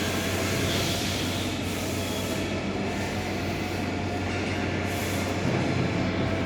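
PET bottle washing line running: a steady industrial machinery din, with a constant low hum under a wide hiss.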